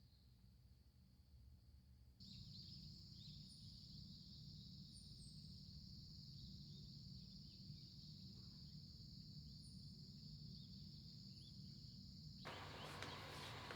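Faint outdoor nature ambience: a steady high-pitched chorus of insects, with a few short, very high bird chirps over it. The sound changes abruptly about two seconds in and again near the end, as the scene cuts.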